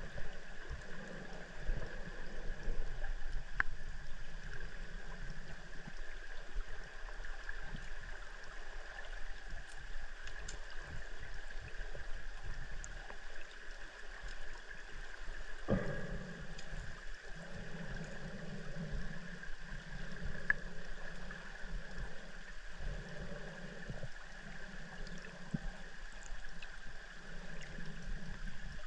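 River water flowing and gurgling as picked up underwater by a submerged drone, with a steady high whine and a low hum that cuts in and out. A sharp click stands out about halfway through.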